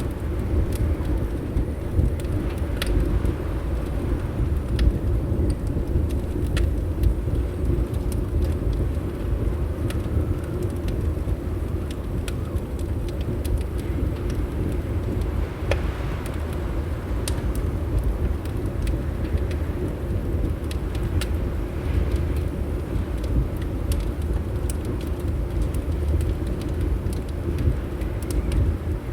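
Wood fire crackling in a fireplace, with irregular sharp pops and snaps over a steady low rumble of wind against the windows.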